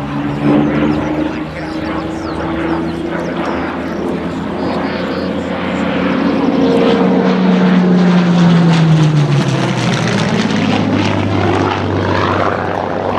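A Second World War fighter's V12 piston engine flying past, its propeller drone growing louder. Its note drops in pitch after about eight seconds as the aircraft passes.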